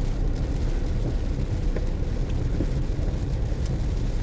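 Steady low road noise inside a moving car driving on a rain-soaked road after a severe storm, with a few faint ticks scattered through it.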